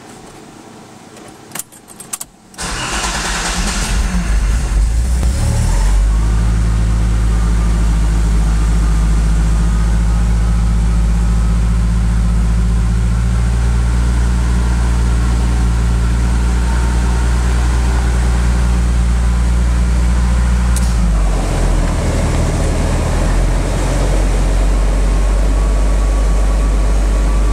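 Datsun 280ZX's 2.8-litre straight-six cold-started: after a few clicks it cranks and catches about two and a half seconds in, climbs, and from about six seconds runs at a steady idle. About 21 seconds in, a rushing blower noise joins as the climate controls are switched on, and the engine note shifts under the added load.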